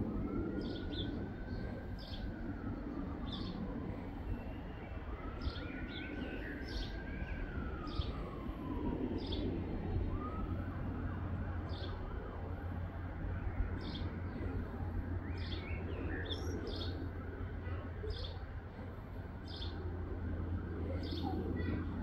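A bird giving a short, high chirp about once a second, over a steady low rumble. In the first half a distant siren wails up and down twice.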